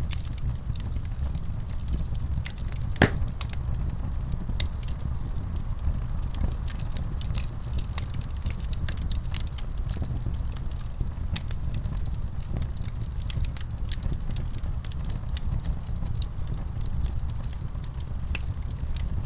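Wood fire burning with a steady low rumble and frequent sharp crackles and pops, one louder pop about three seconds in.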